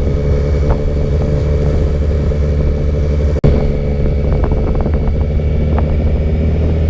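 Yamaha motorcycle engine running at a steady pitch, as when cruising at constant speed. The sound cuts out for an instant about halfway through.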